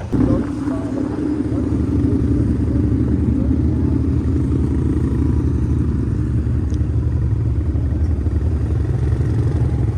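Race car engines running on the dirt track: a loud, steady engine drone that does not let up.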